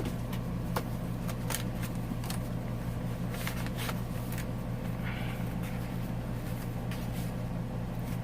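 A steady low hum, with a few light clicks and rustles of journal paper pages and tags being handled.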